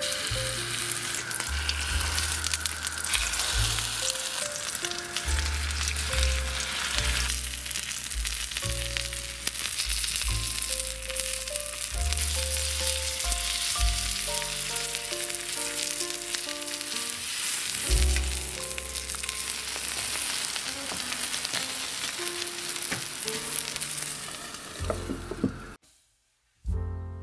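Flour-and-egg-coated eggplant slices, stuffed with cheese and tomato, sizzling steadily as they fry in hot oil in a pan. The sizzle cuts out abruptly near the end.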